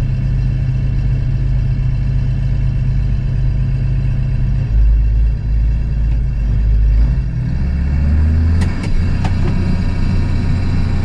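Case IH 1660 combine's diesel engine running. Its low tone shifts partway through and settles at a new steady pitch, with a few sharp clicks about three-quarters of the way in.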